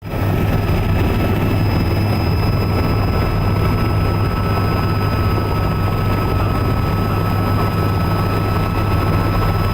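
Helicopter in flight, heard from inside the cabin: a steady loud drone of rotor and engine with a constant high-pitched turbine whine over it.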